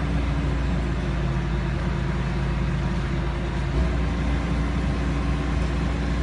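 Heavy diesel engine running steadily, its note shifting slightly about four seconds in.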